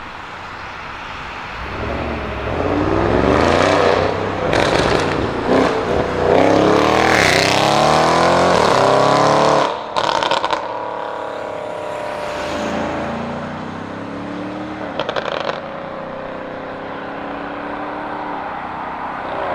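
Audi RS6 Avant C7's twin-turbo V8 with a Milltek exhaust accelerating hard, rising in pitch through several gear changes. About ten seconds in the throttle closes sharply and the exhaust crackles, then the engine runs on at a lower note, with another short burst of crackles near the end.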